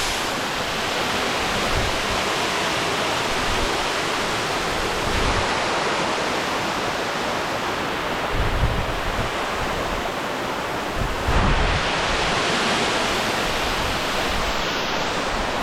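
Waterfall rushing steadily, with a few brief low buffets of wind on the microphone.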